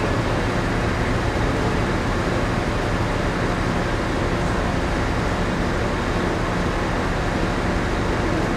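Steady drone inside a moored passenger ship: the even rush of the ventilation and air conditioning over a low, constant hum of the ship's running machinery.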